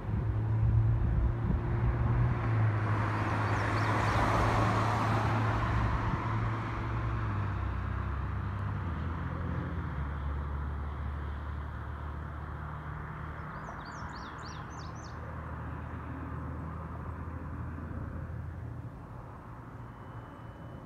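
Freight train cars rolling past with a steady low rumble, gradually fading. A louder rush of noise swells and dies away over the first several seconds, and a bird chirps briefly about two-thirds of the way through.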